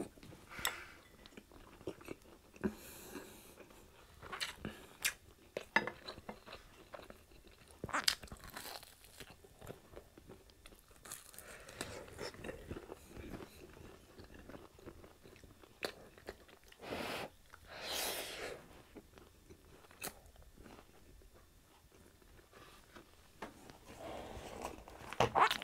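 Close-up mouth sounds of eating crispy fried pork chop with rice: chewing with sharp crunches at irregular intervals and a few louder, longer crunchy bites.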